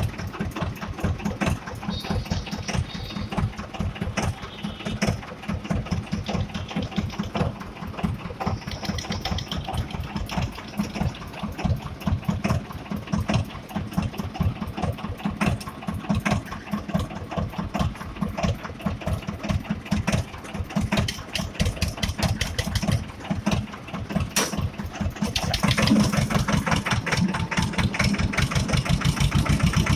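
Escort 335 tractor's three-cylinder diesel engine running with a steady, rapid beat of firing pulses, growing louder about 26 seconds in.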